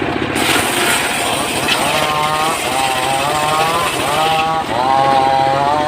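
Engine-powered wood saw running under load, with a steady low engine hum. Over it, a pitched whine rises and levels off again and again, roughly every two thirds of a second, from about two seconds in.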